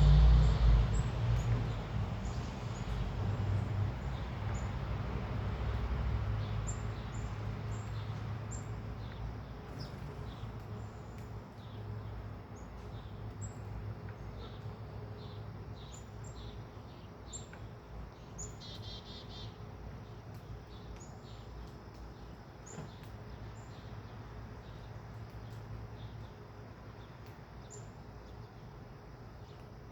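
Birds chirping, with short high calls scattered throughout and one brief rapid trill about two-thirds of the way in. A low rumble, loudest at the start, fades away over the first several seconds.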